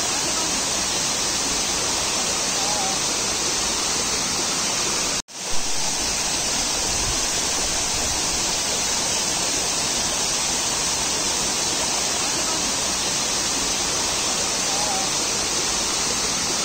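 Steady rush of water falling at a waterfall, an even roar with a brief cut-out about five seconds in.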